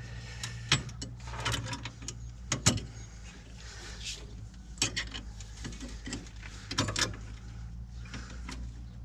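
Metal brake-cable parts and washers being handled and fitted by hand: scattered clicks and knocks, a few at a time, over a steady low hum.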